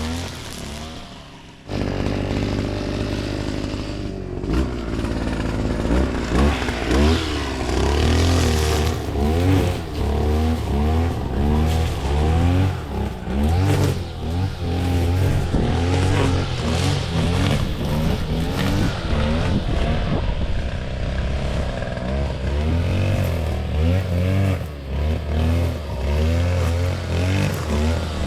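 Small petrol engine revving up and down over and over, its pitch rising and falling about once a second. It dips briefly at the start and comes back in full about two seconds in.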